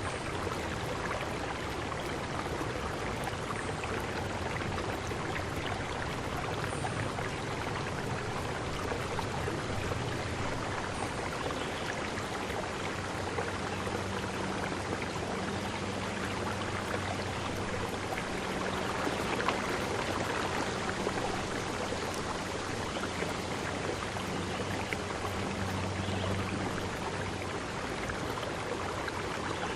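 Steady rush of water, even and unbroken throughout. A low steady hum joins in about a third of the way through and fades out near the end.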